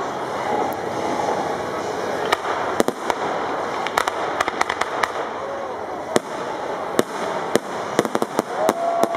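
Aerial fireworks shells bursting overhead: a rapid, irregular string of sharp bangs, coming in clusters, densest in the last second or so.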